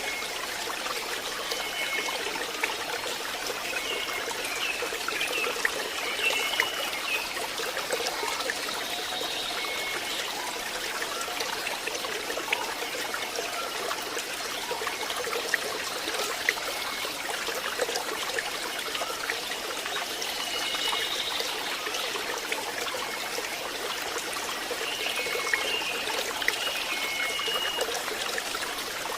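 Stream water trickling and running steadily, with clusters of short, high bird chirps at times.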